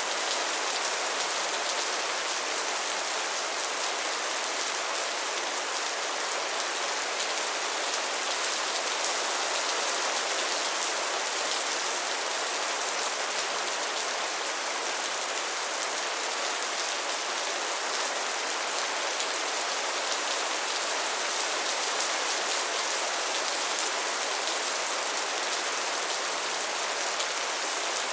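Steady rain falling, an even hiss of many drops with no thunder or pauses.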